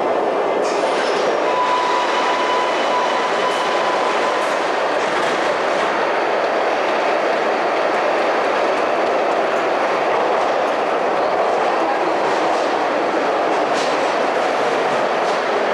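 Rail vehicle running on its track: a steady rumble with a few sharp clicks. A thin steady tone sounds from about one and a half to four seconds in.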